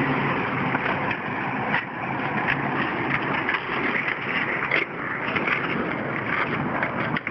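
Steady vehicle noise with a low hum, and scattered light clicks and knocks.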